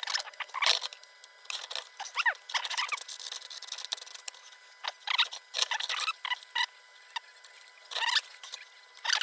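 Old tin-plate lantern parts being pried and worked by hand: scattered light metallic clicks and scrapes with a few short squeaks, as tabs are bent up to free a stuck part.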